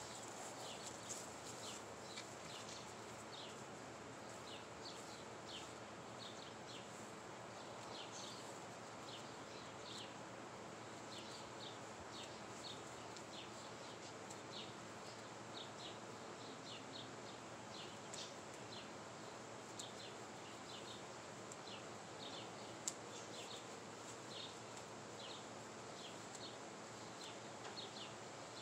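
Backyard ambience of birds chirping: short, high, falling notes repeated about once or twice a second, over a faint steady hiss and a thin high whine. A single sharp click sounds about three quarters of the way through.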